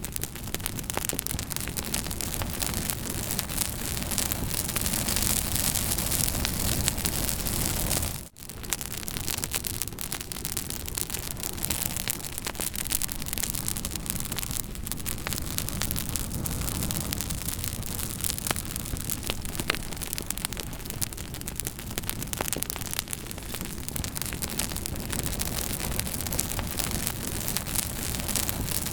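Campfire burning: many sharp crackles and pops over a steady hiss. The sound drops out for a moment about eight seconds in.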